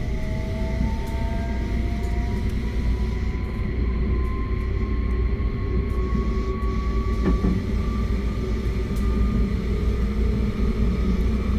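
JR West 271 series electric train running, its Hitachi SiC VVVF inverter and traction motors giving a thin whine that climbs slowly in pitch as the train gathers speed, over a steady low rumble of wheels on rail. A single short click comes about seven seconds in.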